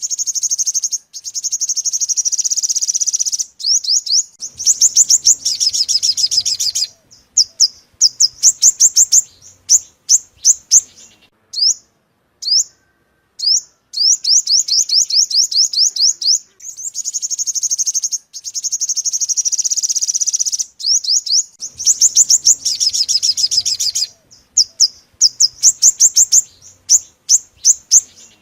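Sunbird song played as a lure call: high, thin notes run together in fast trills lasting a few seconds each, alternating with strings of separate sharp chips and brief pauses.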